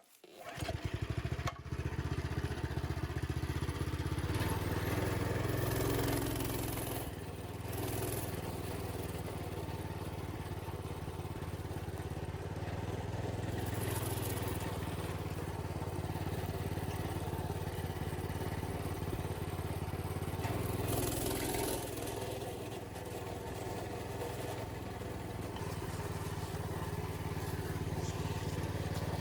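Small engine of a minibike running as it is ridden, its note rising and falling a few times as the throttle changes.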